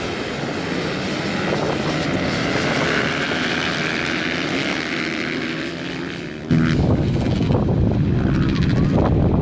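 Motocross motorcycle engines running at high revs as a steady drone. About six and a half seconds in, it suddenly becomes louder and lower-pitched.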